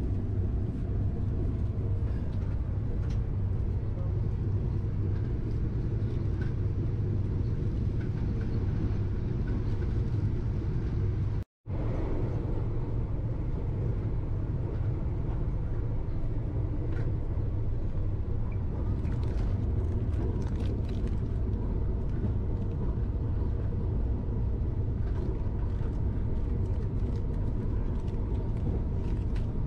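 Steady low rumble of a moving Vande Bharat Express (Train 18) electric multiple unit, heard inside the passenger carriage. The sound cuts out for a moment about a third of the way in.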